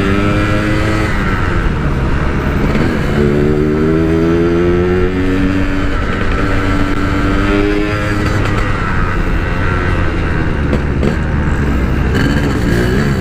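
Yamaha RX-King's 135cc two-stroke single-cylinder engine running under way through a Packing Power stock-look exhaust, its pitch climbing and dropping back several times as the throttle is opened and closed.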